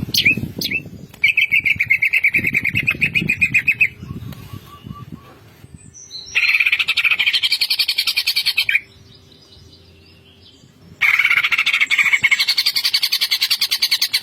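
Green leafbird (cucak ijo) singing in fast rattling trills, the 'ngentrok' style of song. There are three runs of rapidly repeated high chirps, each about two and a half to three seconds long, with short pauses between.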